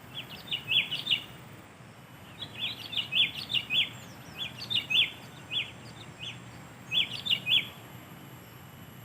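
Sooty-headed bulbul (kutilang) calling in short, quick bubbly phrases of a few notes each, about four phrases with pauses between them.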